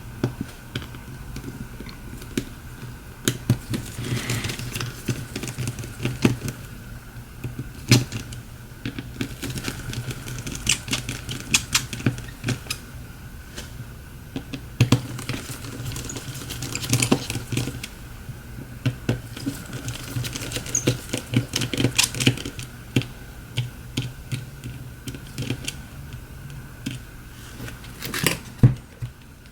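Small precision screwdriver and tools clicking and tapping irregularly as the tiny Phillips screws are backed out of a Samsung Galaxy S7 edge's frame, over a steady low hum.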